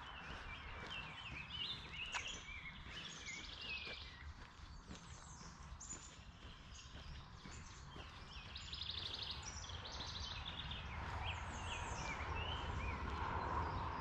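Several songbirds singing together, with overlapping chirps and quick trills throughout, over a low steady rumble.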